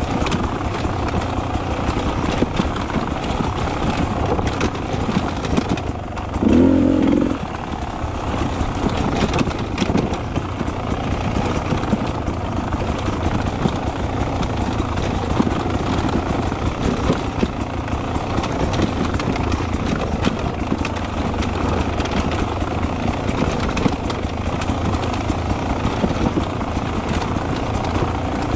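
Beta 300 RR two-stroke enduro motorcycle engine running under way, with many small knocks and rattles and a brief louder surge about six and a half seconds in.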